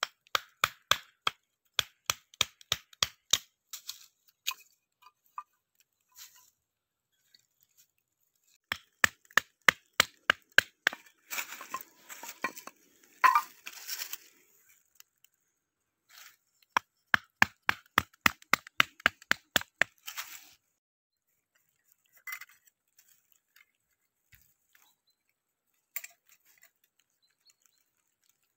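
Crisp, rapid crunching steps, about three to four a second, in runs of a few seconds with pauses between, then a few scattered single cracks.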